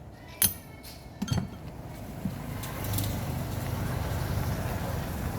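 A few sharp metallic clinks, then a steady low mechanical hum sets in about three seconds in and holds.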